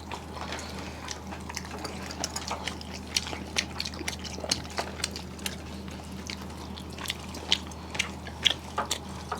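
Close-up eating sounds of rice and fish eaten by hand: wet chewing, lip smacks and soft irregular mouth clicks, several a second, over a steady low hum.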